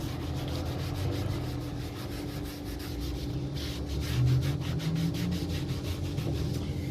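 Degreasing cloth scrubbing a plastic vehicle footboard step in quick back-and-forth strokes, about five a second, most vigorous in the second half, wiping off old silicone coating.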